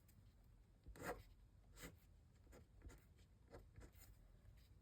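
Faint scratching of a fineliner pen drawn across paper in a few short strokes, about one a second.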